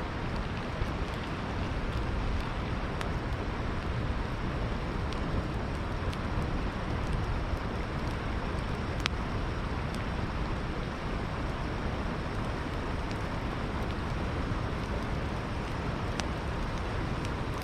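Campfire crackling, with sharp pops a few times, over a steady rush of flowing river water.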